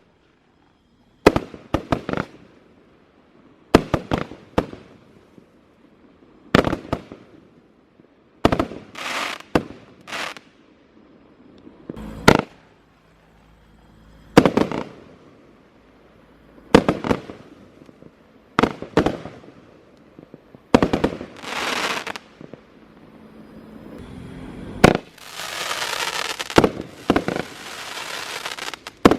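A 16-shot fireworks cake firing its shots one after another, about every two seconds, each a sharp bang followed by a short crackling tail. Near the end a bang is followed by about four seconds of continuous crackling.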